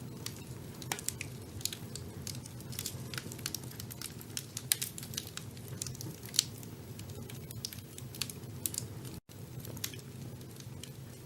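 Wood fire burning in a fireplace: many irregular sharp crackles and pops over a steady low rumble of the flames. The sound drops out for an instant about nine seconds in.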